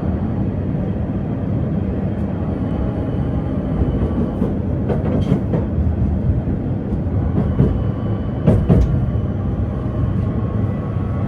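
PKTS 71-931M Vityaz-M low-floor tram running between stops, heard from inside the passenger cabin: a steady rumble of wheels on rails and running gear, with a few sharp knocks about halfway through and again later.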